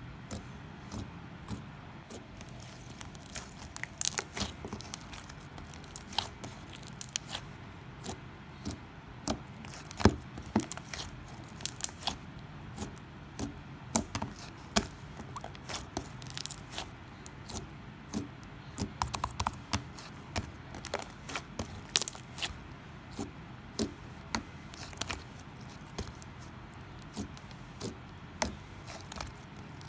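Hands working a crinkly, sticky craft material: irregular sharp clicks, crackles and crinkles, several a second at times, with a few louder snaps.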